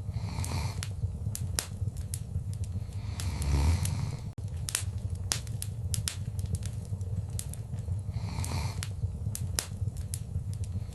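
Wood fire crackling in a fireplace: sharp, irregular pops and snaps over a low rumble, with soft hissing swells about half a second and three and a half seconds in. The sound cuts out for an instant a little past four seconds.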